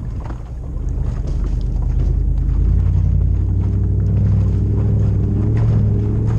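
Toyota LandCruiser 100 Series 2UZ-FE V8 running through a full exhaust with a deep rumble, pulling under throttle. The note swells louder about two to three seconds in and holds, with a few light knocks over it.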